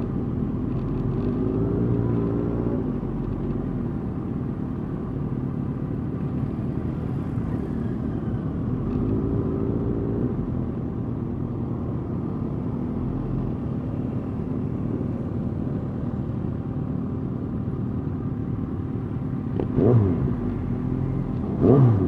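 Motorcycle engines running steadily at low parade speed, the pitch lifting and falling a couple of times. Near the end come two short, loud revs.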